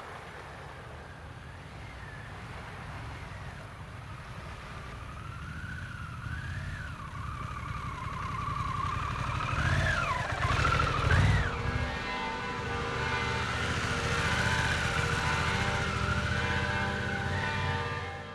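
Harley-Davidson Pan America's V-twin engine rumbling, growing louder toward the middle, with a wavering siren-like wail rising and falling above it.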